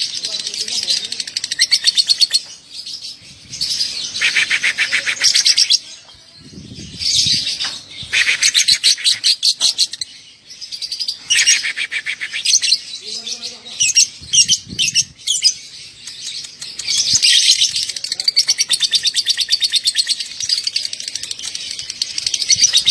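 Lovebird ngekek: long, rapid, high-pitched chattering trills in bouts of a few seconds, each followed by only a short pause. This is the long-trill, short-gap singing that Indonesian bird keepers prize in a lovebird in full song (gacor).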